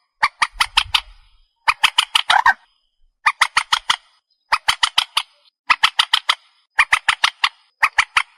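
Recorded call of the trích ré bird: rapid bursts of six to eight sharp, harsh clicking notes, repeating about once a second.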